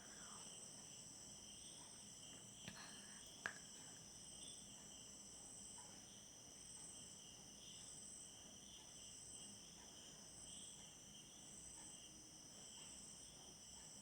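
Faint insect chorus, like crickets: several steady high trills going on together, some pulsing evenly. There are two small clicks about three seconds in.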